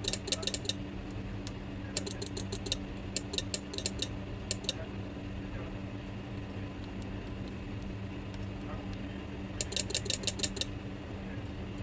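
Relay of a household changeover switch clicking in quick rattling bursts as 24 volts is touched to its coil, a sign that this relay switches. Several bursts come in the first five seconds and one more near the end, over a steady low hum.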